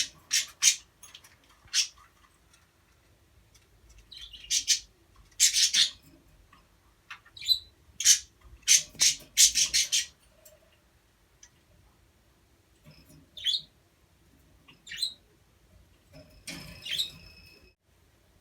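Pet budgerigars (parakeets) giving short, sharp chirps and squawks in scattered clusters, with quiet gaps of a second or two between them.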